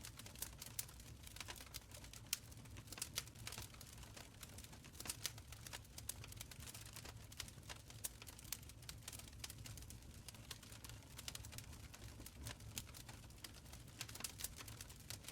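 Wood fire in a stone fireplace crackling, with irregular sharp pops and snaps over a low, soft rumble of the flames.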